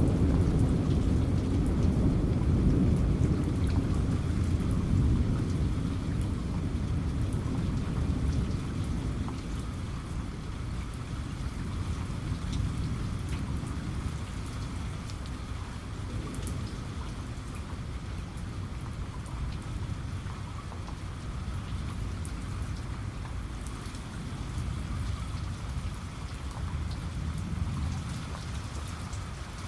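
Steady rain with fine scattered drop ticks, under a low thunder rumble that fades away over the first ten seconds or so.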